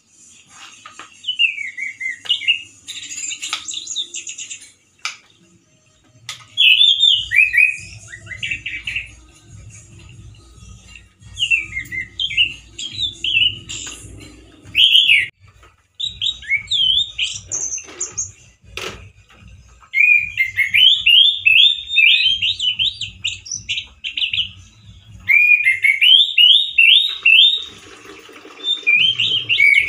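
Male orange-headed thrush singing loud, harsh phrases of fast chirping and trilling notes, in several bursts of a few seconds each separated by short pauses.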